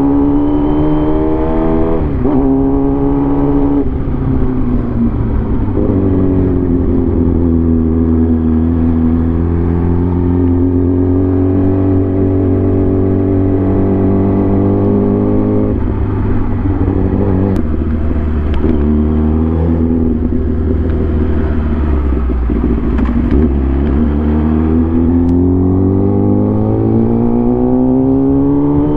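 Motorcycle engine running under way, heard on board. Its pitch falls and steps down over the first few seconds, holds fairly steady through the middle, then climbs again as it accelerates near the end.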